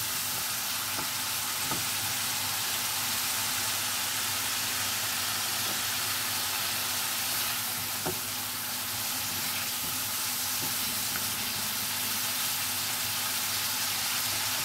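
Onion and ginger masala paste sizzling steadily in hot oil in a nonstick wok while being stirred with a silicone spatula, with a few light taps and scrapes of the spatula. The raw ground onion paste is being fried slowly to cook out its raw smell.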